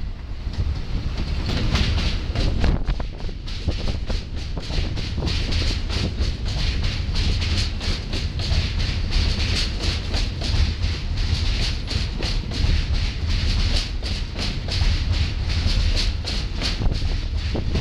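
New York City Subway R142A/R188 train running along the track: a steady low rumble and hiss with rapid wheel clicks over the rail joints.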